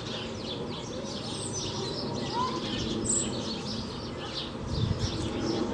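A crowd of small birds chirping at once: a dense chatter of short, high calls overlapping throughout, over steady background noise.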